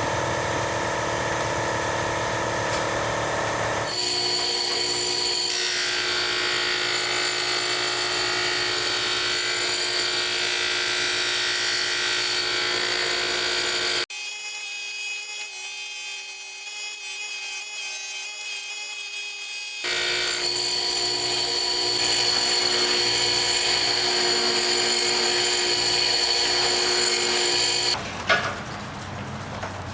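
Electric power tool running steadily with a high motor whine, in stretches that change abruptly several times; the middle stretch sounds thinner, without its low end.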